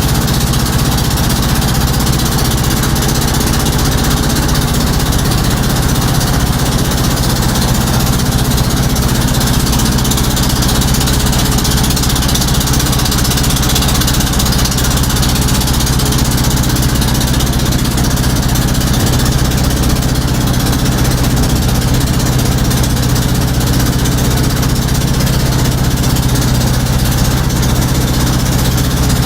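Motorboat engine running steadily at a constant speed, a loud low hum with a hiss of water and wind over it.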